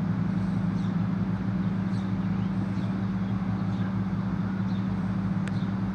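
A large engine running steadily at a constant speed, with a strong, even low hum that does not rise or fall.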